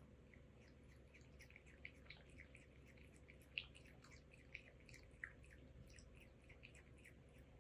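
A cat lapping milk: quick, faint wet tongue clicks, several a second and irregular, with a sharper one about three and a half seconds in.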